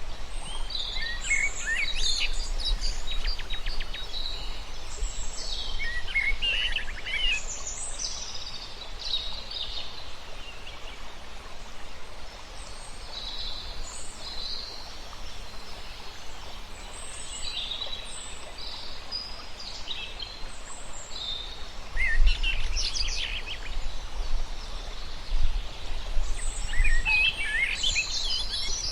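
Several birds calling and chirping in short, overlapping phrases over steady outdoor background noise. A low rumble swells underneath about three-quarters of the way through.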